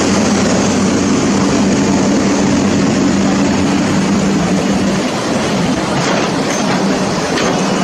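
A motor drones steadily under a loud rushing noise, and the drone drops away about five seconds in.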